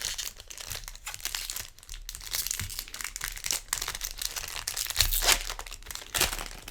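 Magic: The Gathering trading cards being flipped through by hand along with a crinkling foil booster-pack wrapper: an irregular run of rustles and crinkles.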